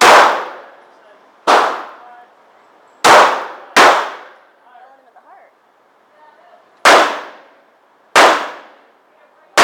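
Glock 9mm pistol fired seven times at an uneven pace, two to three seconds apart at most and twice in quick succession, each shot sharp and followed by a short echo.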